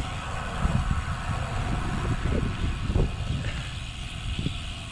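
Wind buffeting the microphone in a fluctuating low rumble, over the hiss of road noise, while riding a road bicycle in gusty wind.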